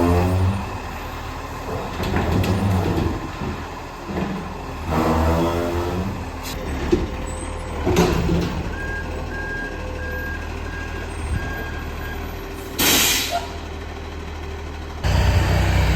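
Garbage truck working: its diesel engine revs up twice, a reversing alarm beeps quickly and evenly for a few seconds, and the air brakes let out a short hiss.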